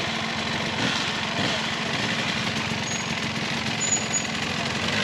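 Off-road motorcycle engine running steadily at a low, rough pitch on a steep race climb.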